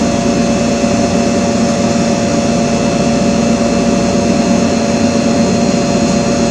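Steady machine whir and hum, with a few fixed tones over an even noise and no change in level.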